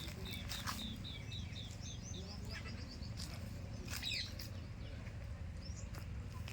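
A bird calling a quick run of short chirps, about four a second, creeping up in pitch over the first three seconds, then a single louder call about four seconds in, over a steady low background rumble.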